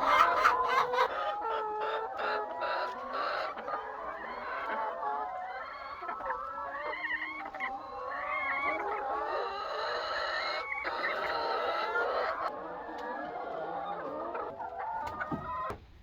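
A flock of chickens clucking and calling, many birds at once with overlapping calls, cutting off abruptly just before the end.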